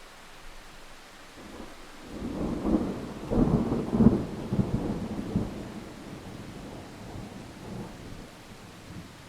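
A roll of thunder over steady rain: the low rumble builds about a second and a half in, is loudest around three to four seconds in, then dies away over several seconds.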